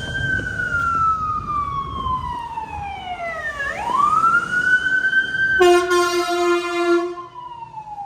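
Emergency vehicle siren wailing, each cycle rising quickly and falling slowly, loud and passing close. Midway through, a steady horn blast sounds for about a second and a half over the siren.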